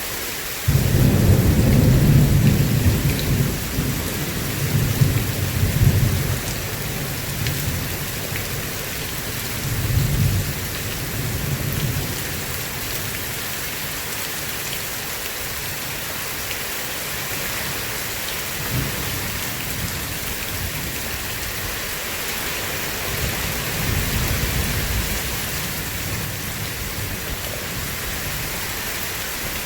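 Steady rain with thunder: a loud low rumble breaks in about a second in and swells again a few times before fading, with a fainter rumble later on.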